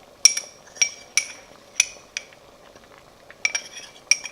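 A spoon clinking against the side of a cooking pan while the soup is stirred: about nine sharp, ringing knocks at an uneven pace, with a quick cluster near the end.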